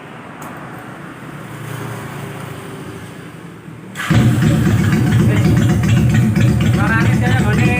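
Low background noise for about four seconds, then a Honda Steed V-twin motorcycle engine sets in abruptly and runs loudly at a steady idle, with an even low pulsing beat.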